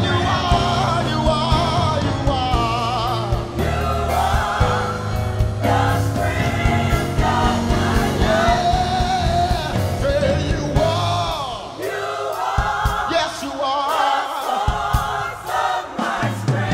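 Gospel choir singing with instrumental accompaniment, voices held in vibrato over steady bass notes; the low accompaniment drops out briefly about twelve seconds in.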